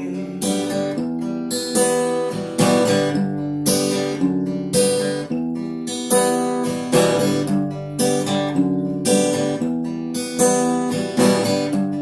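Acoustic guitar strummed in repeated chords with no singing, the instrumental part of a song.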